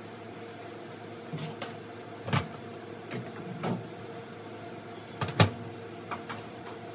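A series of short, sharp knocks and clanks, loudest about two and a half and five and a half seconds in, over a steady hum.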